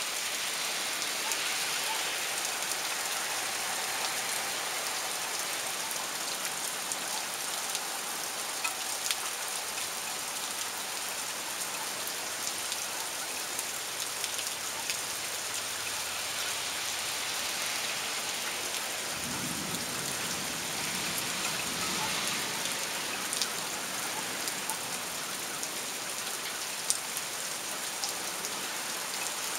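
Torrential rain falling steadily: a dense hiss with scattered nearby drops ticking on surfaces. A low rumble swells and fades about two-thirds of the way through.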